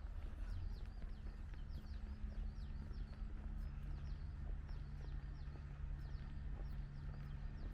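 Small birds chirping over and over in short, falling calls, over a steady low hum. Footsteps on paving knock faintly now and then.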